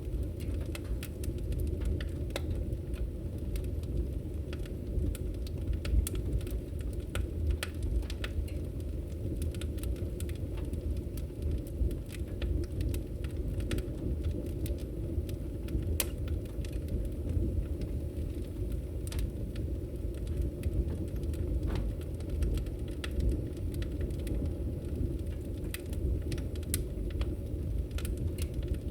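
Wood fire burning in a fireplace: a steady low rumble with sharp pops and crackles at irregular intervals.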